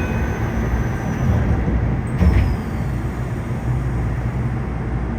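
Yokohama Municipal Subway 3000N train running, with a steady low rumble of wheels on rail heard from inside the car. A single louder knock comes a little over two seconds in, and faint falling whines sound above the rumble.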